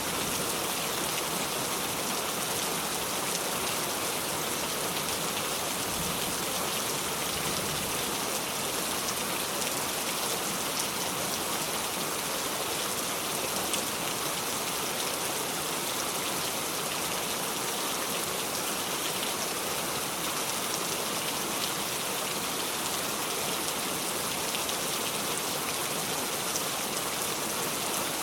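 Steady heavy rain falling, a constant even hiss of drops with no thunder.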